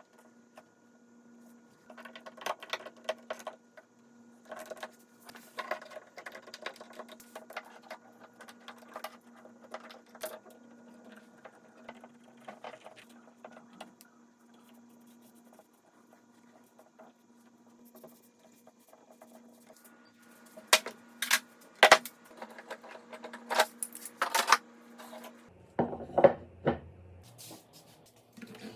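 Scattered light clicks, taps and knocks of small hard workshop parts being handled and set down on a bench, growing louder and closer together near the end, over a faint steady hum.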